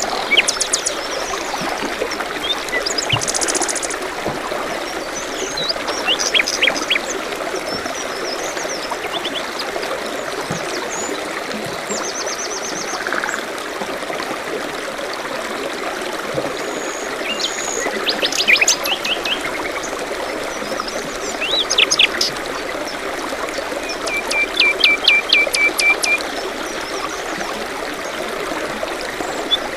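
A stream trickling steadily, with several small songbirds chirping and trilling over it. Near the end one bird gives a quick run of about eight short notes.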